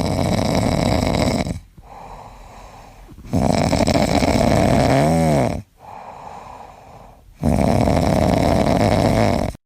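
Snoring in a slow, even rhythm: three long, loud snores about three and a half seconds apart, with quieter breaths between them.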